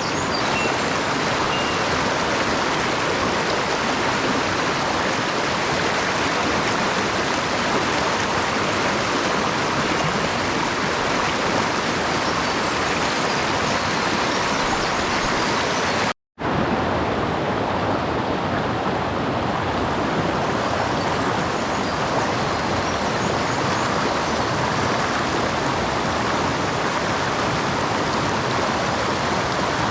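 Steady rush of a mountain stream's flowing water. It cuts out for a moment a little past halfway, then returns slightly duller.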